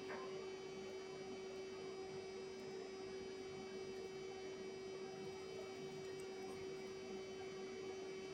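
A faint, steady hum on one low tone.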